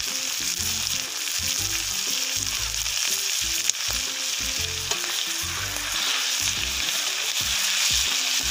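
Chicken liver, onion and green chillies sizzling in hot oil on a tawa: a steady frying hiss, with one sharp click a little past the middle.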